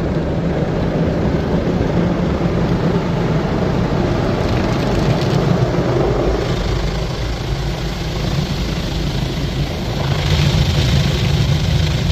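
Automatic car wash gantry's rotating SofTecs foam-cloth brushes scrubbing the car with water, heard from inside the car over a steady low machine hum. The higher scrubbing hiss grows louder about ten seconds in as the brushes pass closer.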